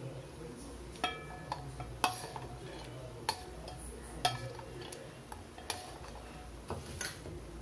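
Metal spoon clinking against metal dishes, about seven separate clinks with a brief ring, as syrup-soaked fried sweets are lifted onto a plate.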